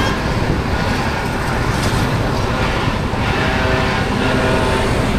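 Motorcycle riding along: steady engine and road noise.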